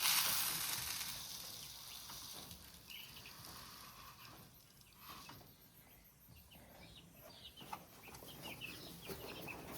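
A sudden burst of rustling noise that fades over about two seconds, then scattered faint cheeps of baby chicks, growing more frequent near the end.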